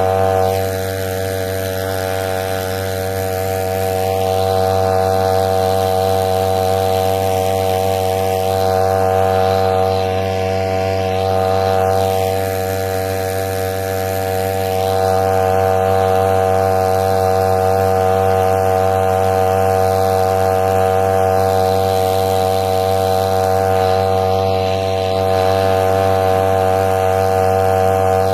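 A small engine running steadily at one constant pitch, loud and unbroken.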